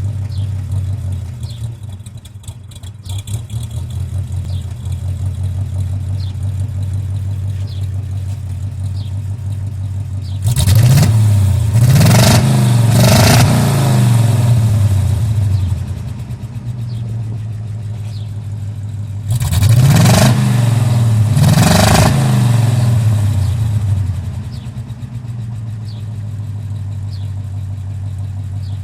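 ZMZ-511 V8 engine of a GAZ-24 Volga idling through its exhaust, blipped twice in quick succession about a third of the way in and again about two-thirds of the way in, then settling back to idle each time. It runs slightly rough, misfiring on a cylinder, while its carburettor is being tuned.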